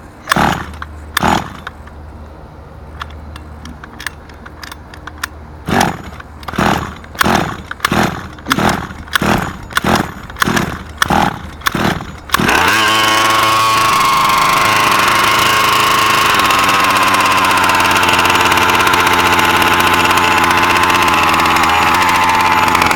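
Small two-stroke gas engine of an HPI Baja 5B RC car (OBR engine, new 990 carburetor) being pull-started: two pulls near the start, then about ten quick pulls of the recoil starter. It catches about twelve seconds in and keeps running steadily at idle, its pitch drifting slightly lower.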